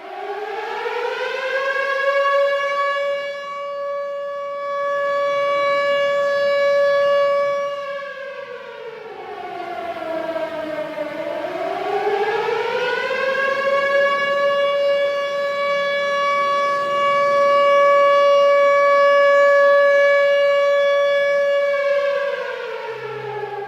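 Civil defense siren wailing. It winds up to a steady high pitch and holds for about six seconds, then winds down. About eleven seconds in it rises again and holds for about nine seconds before falling away near the end.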